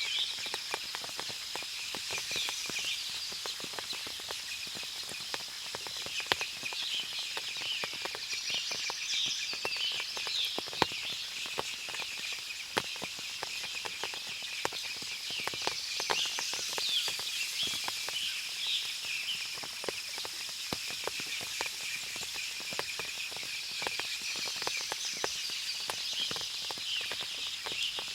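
Forest ambience after rain: scattered drips ticking from the wet foliage, a bird singing a short chirping phrase about every eight seconds, over a steady high-pitched hiss.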